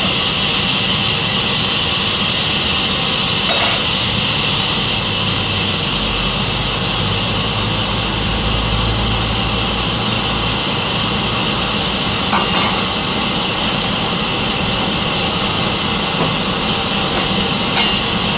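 Sawmill saw machine running steadily, with a low rumble for a few seconds in the middle and three brief knocks.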